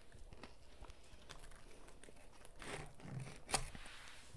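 Faint chewing of a crumb-coated corn dog, then cardboard food box handled, with a few rustles, a low thud and a sharp tap about three and a half seconds in.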